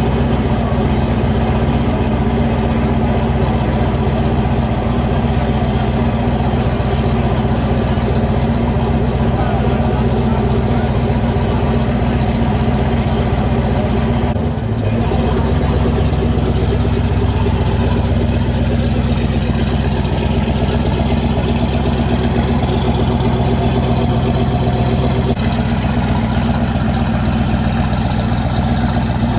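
Car engine idling loudly and steadily, with a brief break about halfway through.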